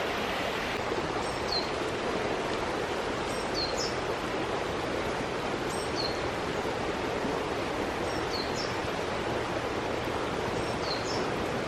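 Mountain stream rushing steadily, with a bird giving a short, high, falling call over it about every two and a half seconds.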